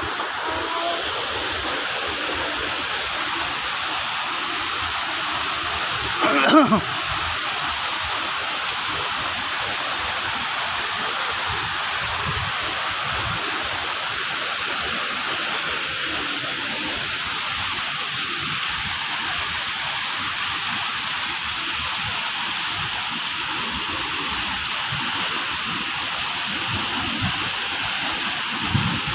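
Waterfall rushing steadily, an even roar of falling water, with one brief louder sound about six seconds in.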